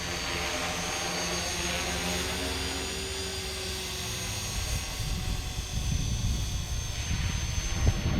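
Radio-controlled model helicopter in flight, its motor and rotor giving a steady hum. Wind buffets the microphone with a gusty low rumble from about halfway through.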